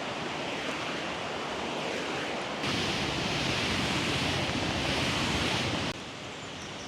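Rushing stream water, a steady hiss that gets louder suddenly about two and a half seconds in and drops suddenly about six seconds in.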